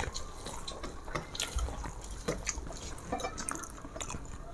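Wet eating sounds: soft squelches and small scattered clicks from rice and fish curry being mixed by hand and chewed.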